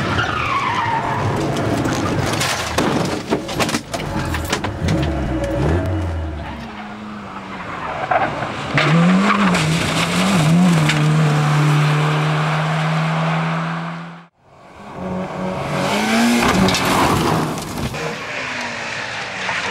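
Racing car engines revving and dropping off, with tyre skidding and several sharp knocks about three seconds in. Around the middle, one engine's revs rise and fall several times, then hold steady. A sudden break about fourteen seconds in leads into another car's engine.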